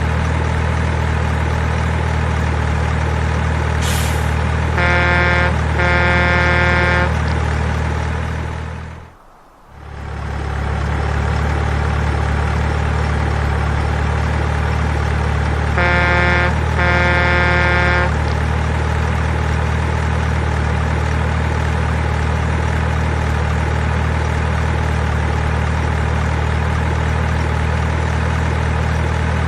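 Steady low engine drone from an RC mining truck's sound unit, broken by two double horn toots, one about five seconds in and one about sixteen seconds in. The engine drone drops away for about a second near the nine-second mark, then comes back.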